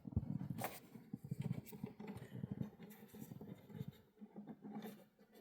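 Motor oil glugging from a bottle into the engine's filler neck as the last half quart goes in, a fast uneven run of small low pulses that dies away about three seconds in.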